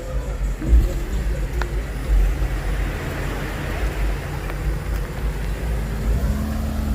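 Car engines running with a steady low rumble and traffic noise at a car meet.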